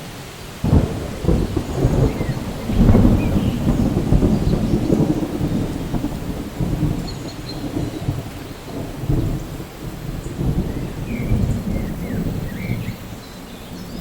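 A thunderclap breaking about a second in and rolling on in long low rumbles, loudest around three seconds and slowly dying away, over steady rainfall.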